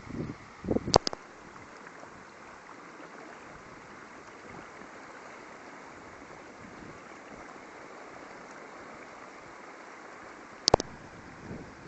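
Rainwater runoff flowing with a steady, even rushing. Wind buffets the microphone in the first second, and there are two sharp clicks, one about a second in and one near the end.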